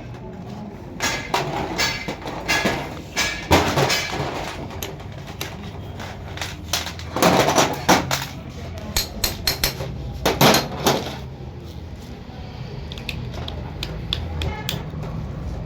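Metal tools and engine parts clanking and knocking as a rickshaw engine and gearbox are worked on by hand. It is an irregular string of hits and rattles, with the loudest clusters about four, seven to eight, and ten seconds in.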